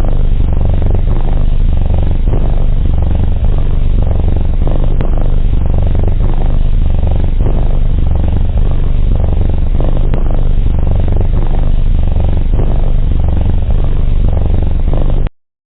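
Cat purring, a low, steady purr that cuts off suddenly just before the end.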